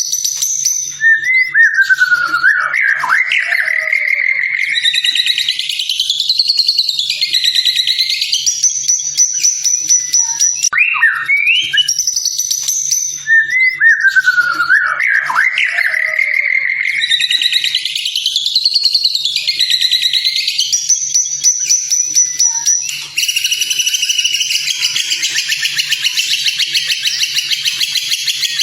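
Recorded white-rumped shama song of the kind used as a masteran: loud, varied whistled phrases sliding up and down in pitch. The same run of phrases plays twice, then about two-thirds of the way through it gives way to a dense, rapid, buzzy trill.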